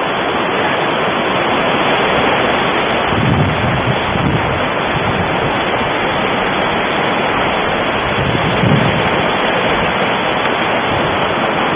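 Wind buffeting the microphone: a steady rushing noise with low rumbling gusts swelling about three seconds in and again near nine seconds.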